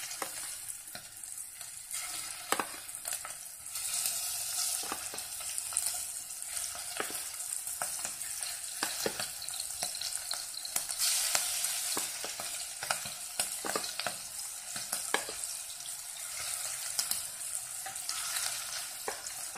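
Marinated prawns shallow-frying in hot coconut oil, a steady sizzle with many sharp spattering pops, which grows louder as more prawns are dropped into the pan.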